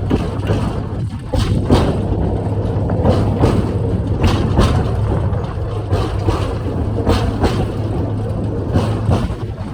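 Little tourist train running: a steady low engine hum with irregular clacks and rattles along the way.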